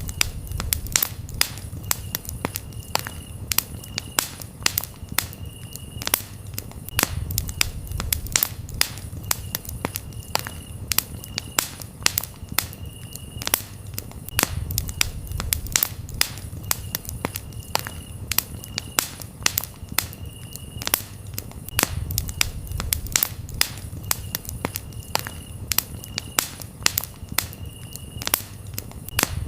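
Campfire crackling, with frequent sharp pops over a low rumble of flame that swells and fades every few seconds. Crickets chirp in a high steady trill that comes and goes.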